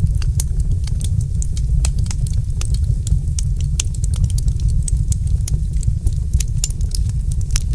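Wood fire crackling, with frequent sharp irregular pops and snaps over a steady low rumble of the burning fire.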